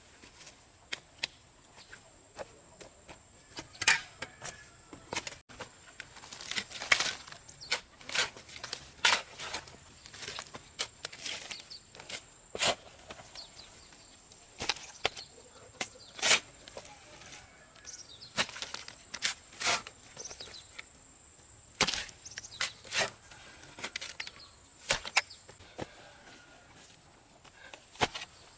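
Irregular sharp knocks and clicks, a few loud ones among many faint ones, with no steady rhythm.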